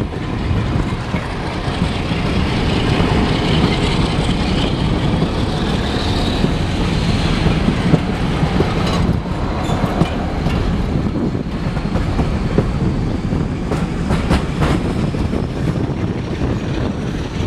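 Diesel-hauled heritage passenger train running along the line, heard from inside a coach: a steady rumble of wheels on the rails, a few sharp clicks over rail joints, and a faint high squeal in the first half.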